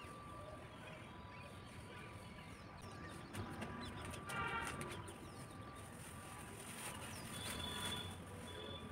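Faint open-air ambience with distant birds calling: one short pitched call about four and a half seconds in and a short high whistle near the end, over a faint steady hum.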